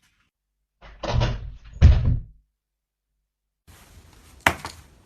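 Two heavy thuds about three quarters of a second apart, followed later by a single sharp click.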